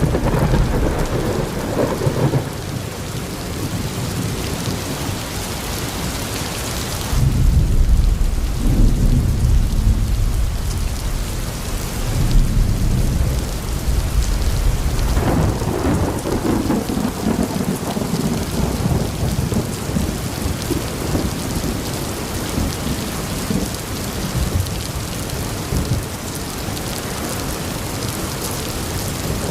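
Steady rain falling, with several rolls of thunder rumbling low; the loudest roll comes about seven seconds in, and more follow around twelve and fifteen seconds.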